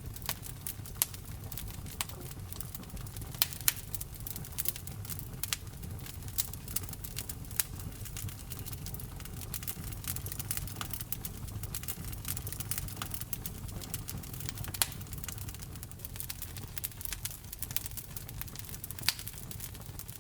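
Wood fire burning in a fireplace, crackling with frequent irregular sharp pops and snaps over a low, steady rumble of the flames.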